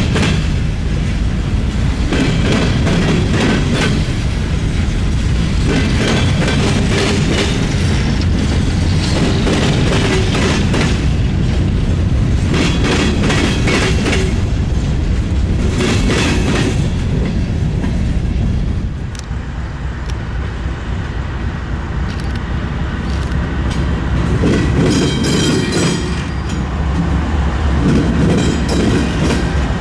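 Freight train passing over a railroad diamond, a loud steady rumble with the wheels clattering across the crossing.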